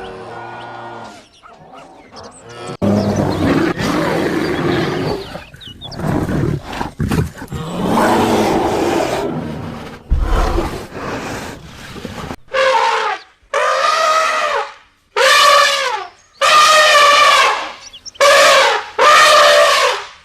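A lion roaring and growling in long, rough, deep calls, followed in the second half by a series of about six loud, pitched animal calls, each about a second long.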